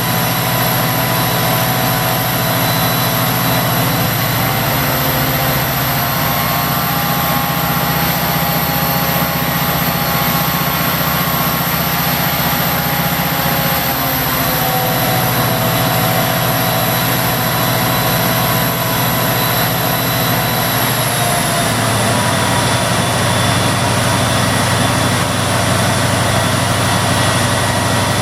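Victorian Railways C class diesel-electric locomotive C501's turbocharged EMD 16-645 V16 engine running steadily and loudly, with a high whine over it. The engine note shifts in steps a few times, a few seconds in, about halfway, and again about three-quarters through, as with throttle notch changes.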